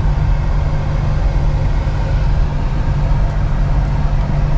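Vehicle engine and road noise heard from inside the cab while driving slowly, a steady low hum.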